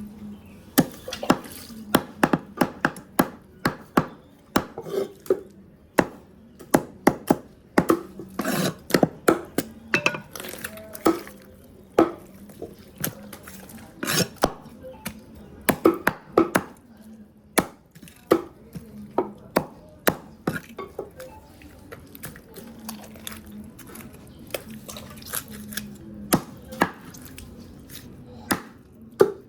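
Knife or cleaver chopping a chicken into pieces on a cutting board: many sharp, irregular strikes, some in quick runs of two or three, with quieter cutting and handling sounds between.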